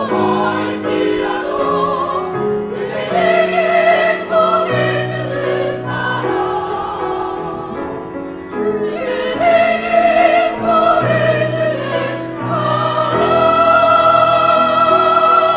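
Live vocal music: singing with vibrato over instrumental accompaniment, ending on a long held high note.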